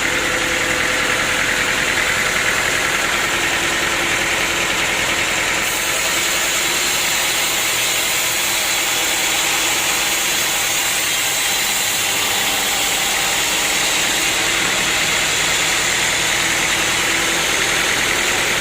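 Sawmill machinery running steadily: a continuous, even mechanical noise.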